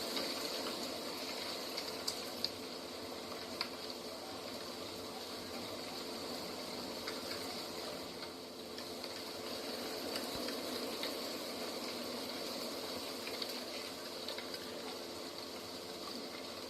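Steady rushing of flowing water, with a faint steady hum underneath and a few small clicks.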